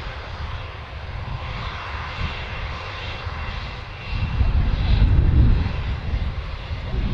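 Airliner engines running with a steady noisy roar and a faint high whine; a heavier low rumble swells in about four seconds in.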